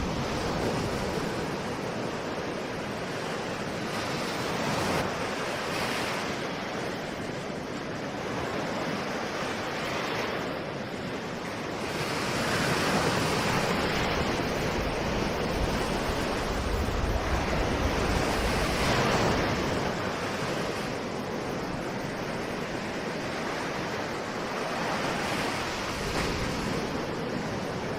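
Ocean surf: waves breaking and washing in as a continuous rushing noise that swells and eases every few seconds, growing louder for several seconds about halfway through.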